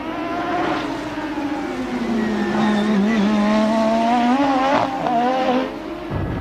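Formula One car engine running at high revs, its pitch wavering up and down with the throttle. The sound changes abruptly about six seconds in.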